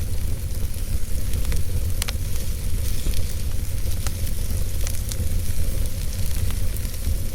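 Wood fire burning in a fireplace: a steady low rumble of the flames with scattered crackles and small pops, one sharper pop about two seconds in.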